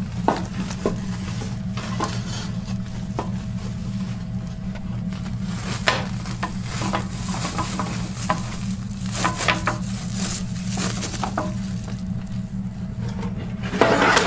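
Coarse burlap sacking and cardboard being handled by hand: irregular rustles, scrapes and crinkles that grow busier after about six seconds, with a louder rustle near the end. A steady low hum runs underneath.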